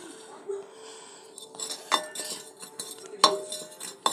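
Sharp metallic clicks and clinks of a bearing puller being turned by hand in a ceiling fan's bottom housing to draw out the ball bearing, three distinct clicks over a faint steady hum.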